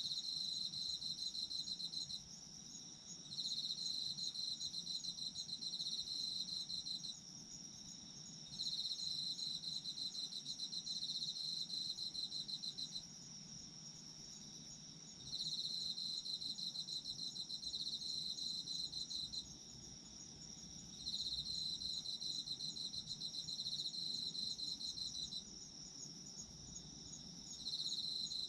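Autumn crickets singing. One sings a lower, rapid pulsing trill in repeated bouts of about four seconds, with short pauses between. Behind it runs a steady higher-pitched trill from another insect.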